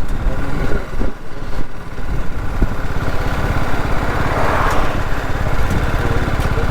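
BMW G 310 GS single-cylinder motorcycle engine running with a steady rapid thrum, a rush of noise swelling briefly around the middle.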